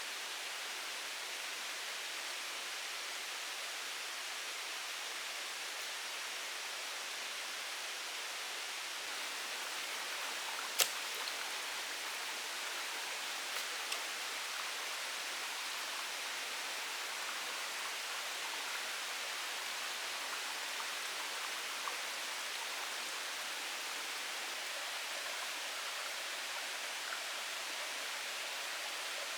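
Steady hiss of water, with one sharp click about eleven seconds in and a few fainter ticks after it.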